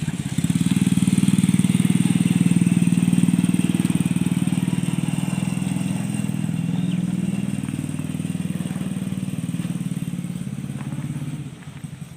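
Engine of a home-built mini tractor running steadily with a fast, even pulse, its level falling away sharply near the end.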